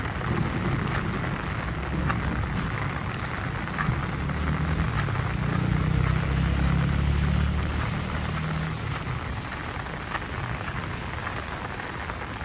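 Steady rain falling, with individual drops ticking sharply close by. A low rumble swells through the middle and then fades.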